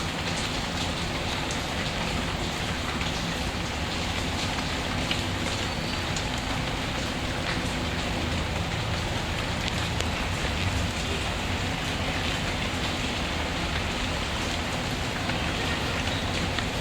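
Steady rain, mixed with the scattered small pops of a crackling wood fire.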